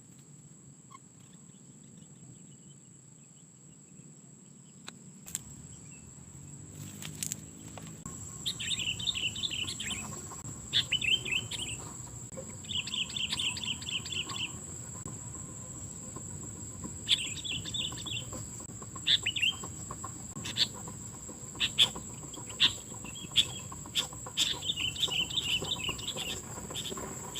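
Sooty-headed bulbul (kutilang) singing in repeated bursts of rapid, bubbly chattering notes, starting about eight seconds in. Underneath is a steady, high-pitched insect drone, with scattered sharp clicks.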